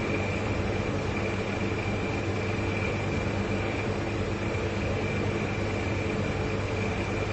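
Two large refrigerators running together, their compressors making a steady low hum with a faint high whine above it.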